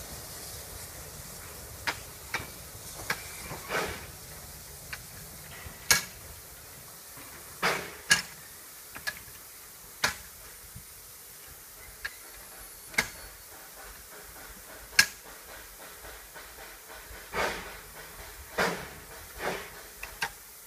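Narrow-gauge steam locomotive standing with a steady steam hiss, over which come irregular sharp metallic clanks and knocks and a few short bursts of steam.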